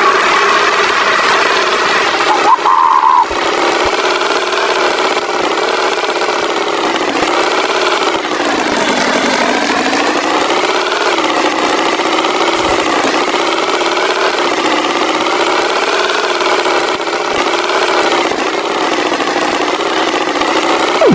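Cartoon tractor engine sound effect running steadily, its pitch drifting slowly up and down. A brief high tone cuts in about two and a half seconds in.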